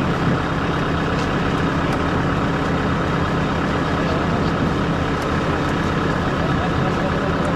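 Concrete pump truck's diesel engine running steadily.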